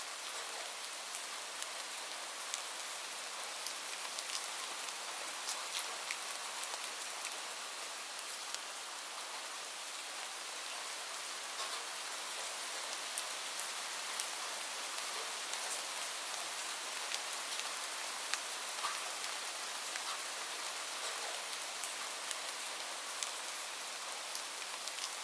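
Steady rain falling, an even hiss with scattered distinct drops ticking on a surface.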